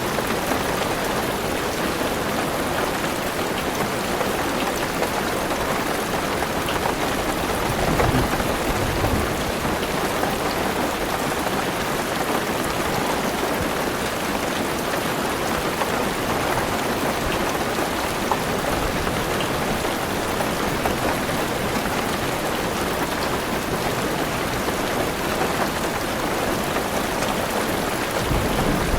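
Heavy rain falling steadily on a car roof and windows, an even, unbroken patter. A short low rumble of thunder rises under it about eight seconds in.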